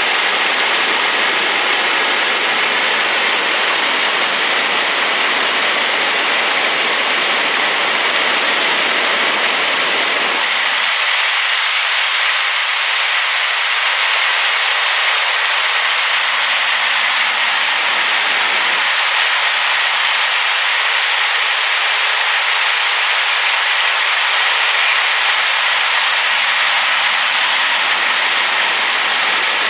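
Waterfall on a rain-swollen river: a loud, steady rush of water like white noise. About eleven seconds in, the deepest part of the sound drops away abruptly.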